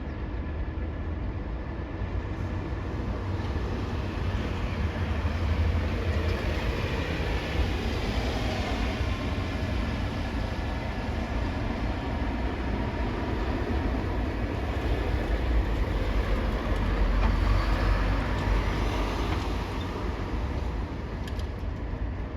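Heavy vehicles, likely trucks, running past with a steady low engine rumble. It swells twice, about a quarter of the way in and again about three quarters in, as vehicles pass.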